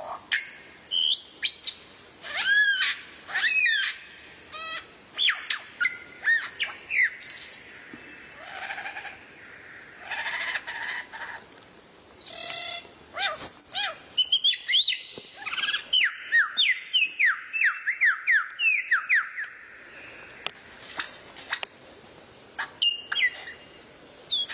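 Songbird singing a varied song of whistled glides and sharp chips, broken by short pauses, with a quick run of a dozen or so repeated down-slurred whistles past the middle.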